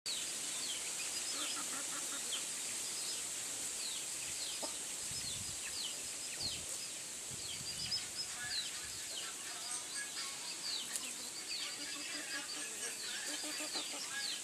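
Chicken chicks peeping: many short, high, falling peeps, several a second, over a steady hiss.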